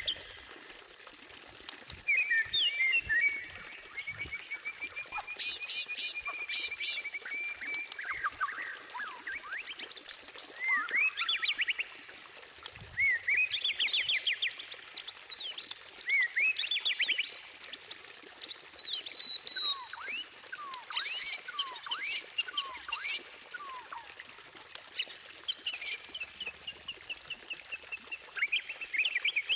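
White-rumped shama (murai batu) singing a long, varied song of sweeping whistles, a long wavering trill and bursts of rapid repeated high notes.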